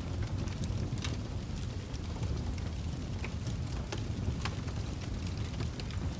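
Wood fire burning in a fireplace: a steady low roar of flames with irregular sharp crackles and pops.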